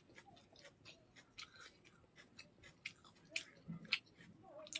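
Close-miked chewing of a mouthful of rice and curry: irregular soft wet smacks and clicks of the mouth, with a few sharper clicks near the end.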